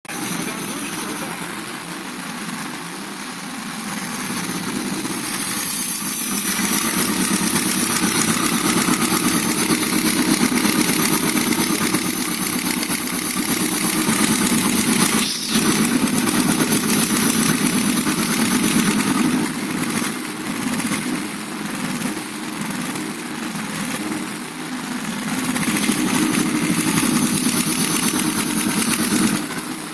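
Engine running with a fast, even metallic ticking from the valve gear: valve knock, as the owner presents it. It grows louder a few seconds in, as if the revs come up a little.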